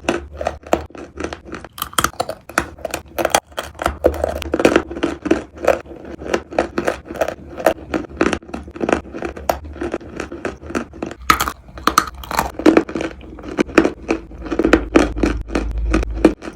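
Biting and chewing edible chalk and clay: a fast, unbroken run of dry crunches and scrapes.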